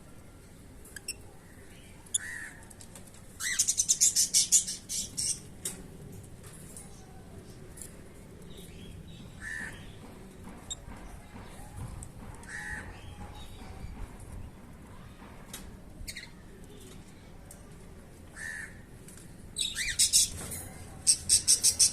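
Lovebirds chattering: a burst of rapid shrill chirps about three and a half seconds in and another near the end, with a few single short calls in between.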